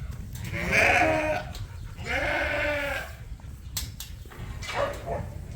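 Sheep bleating: two long, wavering bleats, one about half a second in and one about two seconds in.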